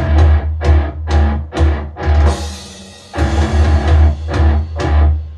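Rock music with a drum kit, guitar and heavy bass played through an Anker Soundcore portable Bluetooth speaker. Sharp drum hits punctuate it, and it thins out briefly about halfway through before cutting off near the end.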